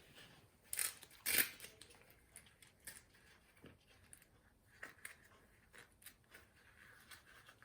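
Light handling noises: soft rustles and scattered small taps, with two louder clicks about a second in.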